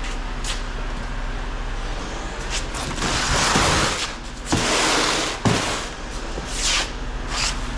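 Heavy truck engine running with a steady low hum, broken by two loud bursts of hissing noise in the middle and shorter hisses near the end.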